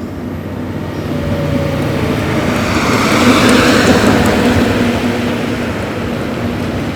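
Heavy motor vehicle running with road and engine noise, swelling to its loudest about halfway through, as if passing close, then holding steady.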